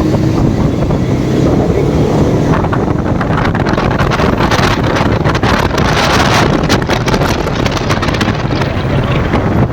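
Bajaj Pulsar RS200 single-cylinder engine running at riding speed under heavy wind buffeting on the microphone; the wind gets gustier and harsher in the middle.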